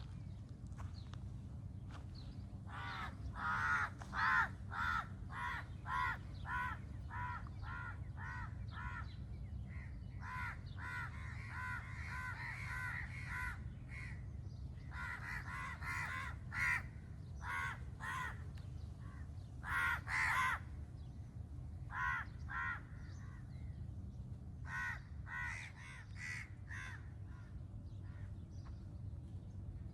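A crow cawing in runs of quick, harsh calls, about two a second, over a steady low rumble.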